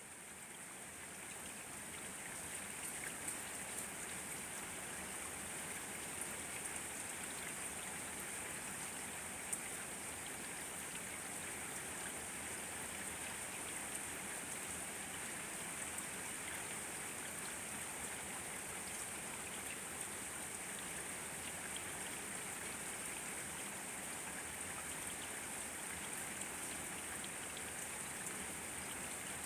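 Steady rain falling, a dense even hiss with scattered drop ticks, fading in over the first couple of seconds.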